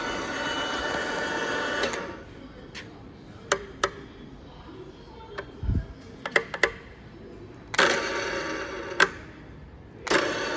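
Toa Kikai TRD600C radial drill press running, then stopping about two seconds in. A series of sharp clicks and knocks and one low thump follow, with a brief burst of running about 8 seconds in, and the machine starts running again near the end.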